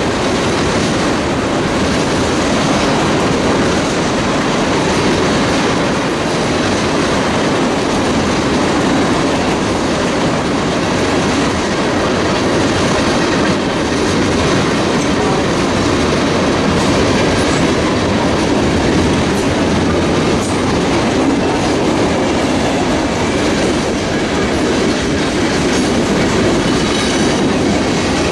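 Freight cars of a manifest freight train rolling past, mostly tank cars, their steel wheels clattering steadily over the rails. A few faint high wheel squeals come in the later part.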